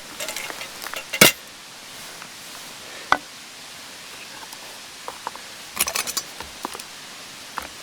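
Scattered knocks and clicks of objects being handled: one loud knock about a second in, a sharp click about three seconds in, and a quick run of clicks near six seconds.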